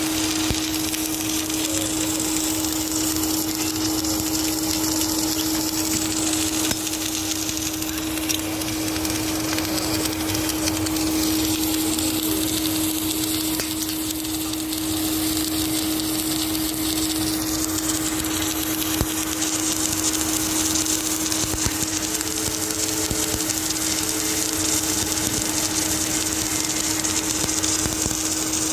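Automatic submerged arc welding machine running steadily on a steel shell seam: a constant electrical hum with an even hiss over it, unchanging throughout.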